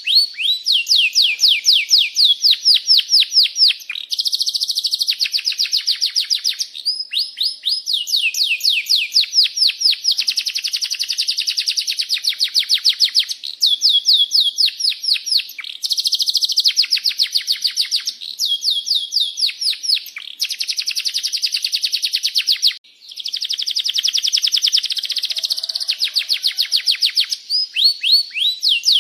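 Domestic canary singing a long, continuous song of rolling trills: phrase after phrase of fast repeated falling notes, with only short breaks between phrases.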